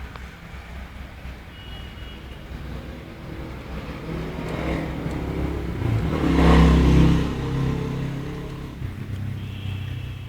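A motor vehicle's engine running and passing by, growing louder to a peak about six to seven seconds in, then fading away.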